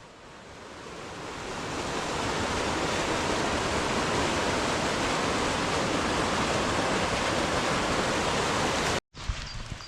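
Rushing water, as from a burn in spate or a waterfall: a loud, steady rush with no pitch that builds up over the first two seconds and cuts off abruptly near the end.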